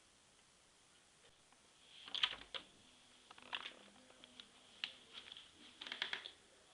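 Faint, irregular light clicks and taps, some in quick clusters, starting about two seconds in.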